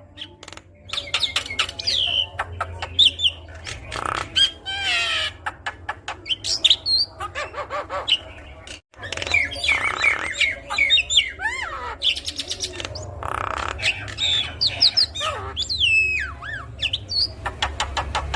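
Javan myna (jalak kebo) singing a varied, busy song of whistles that glide up and down, harsh scratchy notes and rapid runs of clicks, with a brief break about nine seconds in.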